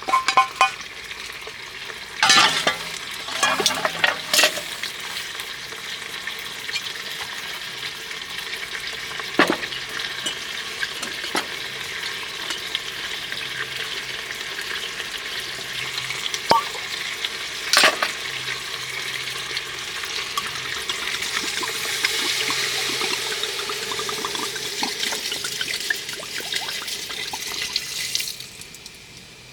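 Food sizzling and frying in a pan, a steady hiss with a few sharp clicks of a utensil against the pan; the sizzle cuts off suddenly near the end.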